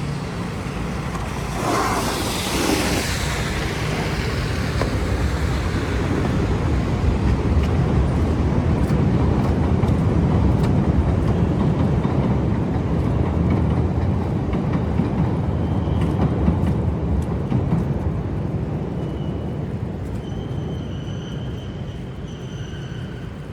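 A large vehicle passing on a city street: a low rumble that builds over several seconds and then fades. It opens with a short, sharp hiss about two seconds in, and a faint high squeal comes near the end.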